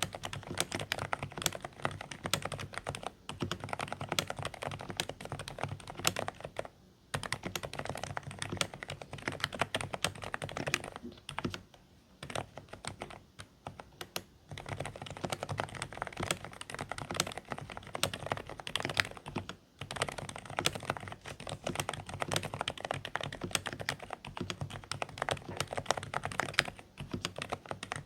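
Continuous typing on a Dareu A104 Pro mechanical keyboard with silent beige switches: a dense run of soft, somewhat muffled keystrokes, broken by a few short pauses.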